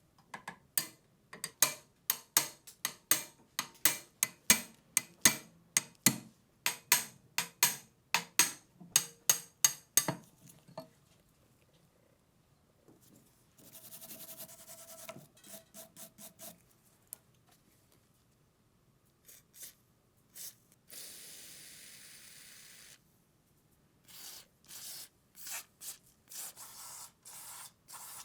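Hand tool scraping or filing a metal part in quick repeated strokes, about three a second, stopping after about ten seconds. Two short steady hisses follow, and a few more strokes come near the end.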